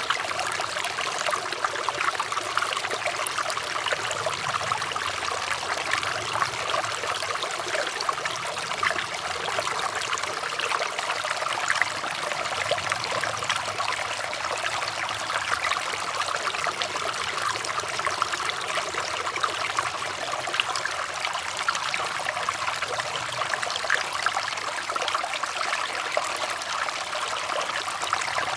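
Water trickling and babbling steadily, a continuous bubbling splash like a small stream running over stones, with no pauses or changes.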